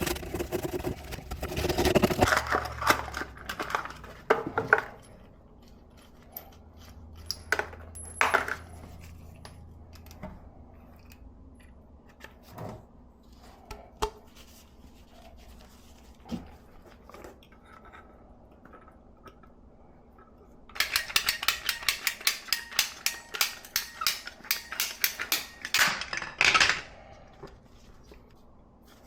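Tools and pipe parts being handled: scattered clinks and knocks, with a low hum in the first few seconds, then about six seconds of rapid scraping strokes near the end.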